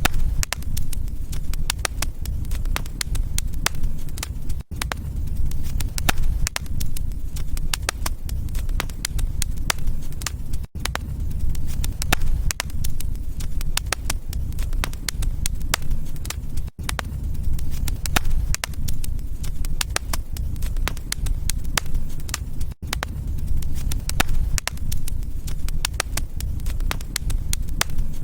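Wood fire crackling in a fireplace: a dense run of sharp pops and snaps over a low steady rumble of the flames. Very brief dropouts about every six seconds.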